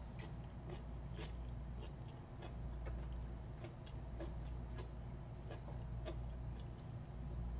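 A person chewing food close to the microphone: scattered soft mouth clicks and smacks over a steady low hum.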